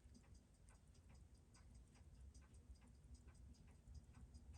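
Seiko 6139 automatic chronograph movement ticking in quick, even beats, about six ticks a second. It is running steadily dial-down on a timing machine.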